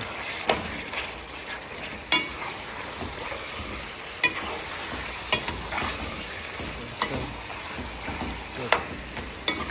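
Chicken, onion and fresh tomato slices sizzling in oil in a cooking pot as they are stirred with a slotted spoon, with about seven sharp knocks of the spoon against the pot.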